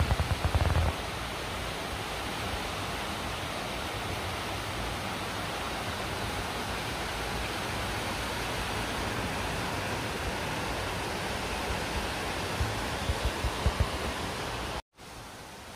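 Heavy cyclone rain and wind: a steady rushing hiss, with gusts buffeting the microphone in low thuds at the start and again near the end. The sound cuts out suddenly for a moment shortly before the end.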